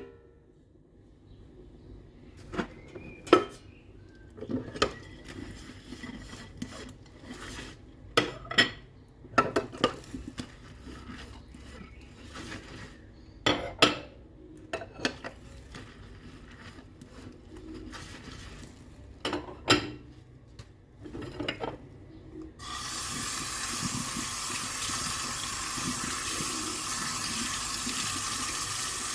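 Dishes and cutlery clinking and knocking against each other while being hand-washed, in scattered separate clinks. About three-quarters of the way through, a tap is turned on and water runs steadily into the sink.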